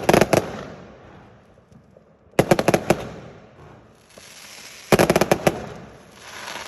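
Firework barrage firing in volleys of rapid bangs: three quick bursts about two and a half seconds apart, each dying away slowly, with a hiss building just before the third.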